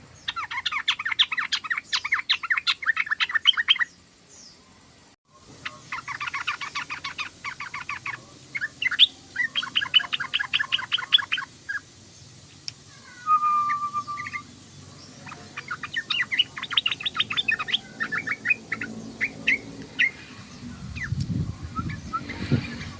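Sooty-headed bulbul (trucukan) chattering: fast rattling runs of notes in bursts of two to four seconds, with a short break about five seconds in and a single lower whistled note around the middle.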